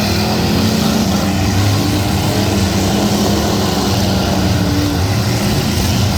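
Eight-cylinder demolition derby car engines running together, a loud steady drone with some rise and fall in pitch.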